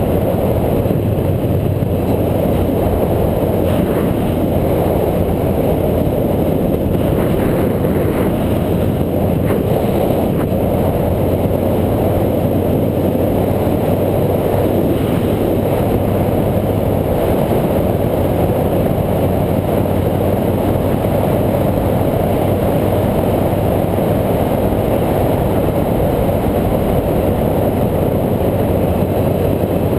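Steady rumble of a bike ride picked up by a camera on the moving bike: wind buffeting the microphone mixed with road noise, even and unbroken.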